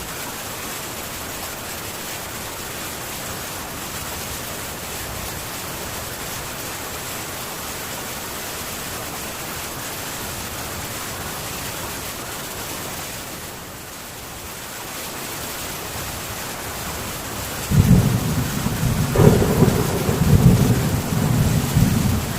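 Heavy rain falling steadily on a metal tin roof. About three-quarters of the way through, a loud rumble of thunder breaks in suddenly and rolls on in several swells over the rain.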